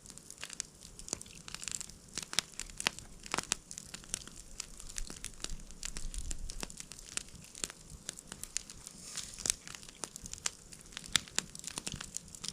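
Someone eating spit-roasted pike, pulling the fish apart and chewing: irregular tearing and crinkling sounds with many small clicks and crackles.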